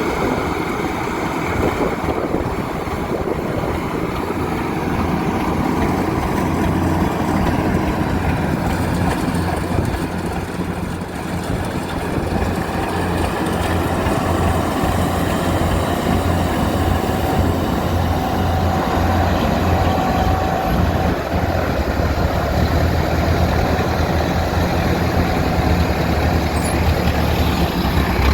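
Kubota DC70 rice combine harvester's diesel engine running steadily under working load, a continuous low drone with mechanical noise, a little louder in the second half.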